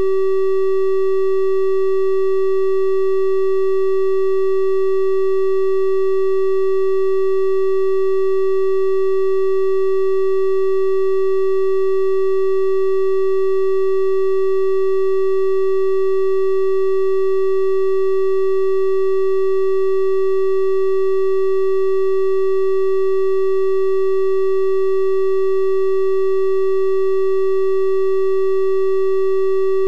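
A steady, unbroken 384 Hz triangle-wave test tone: one pure-sounding hum with faint higher overtones, unchanging in pitch and loudness.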